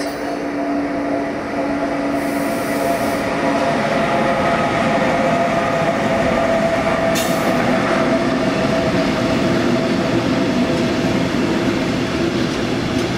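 Freight train running past, the rolling noise of its wagons' wheels on the rails carrying steady squealing tones from the wheels.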